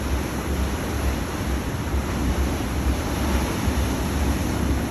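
Wind buffeting a phone microphone: a steady rushing noise with uneven low rumbling gusts.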